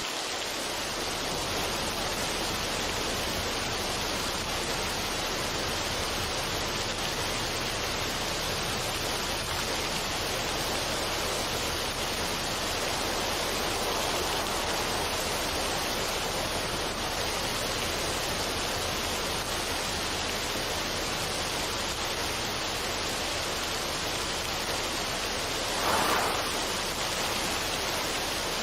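Steady, even rushing noise with no music, with one brief louder swell near the end.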